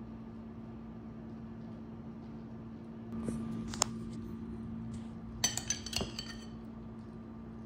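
A spoon clinking against a dish while soup is served into a bowl: one sharp clink a little before the middle, then a quick run of ringing clinks over a steady low hum.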